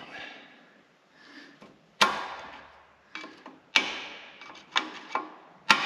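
Hammer striking steel about six times at uneven intervals, each blow ringing briefly, tapping a part home on a Bobcat T250 skid steer's boom bushing mount.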